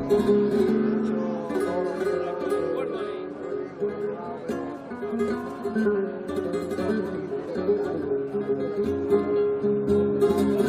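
Flamenco guitar playing the introduction to a fandango, mixing strummed chords with picked single-note runs.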